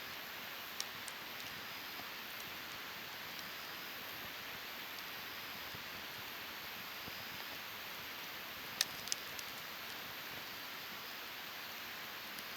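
Wood fire burning with a steady hiss and occasional sharp crackles, two louder pops coming close together about nine seconds in.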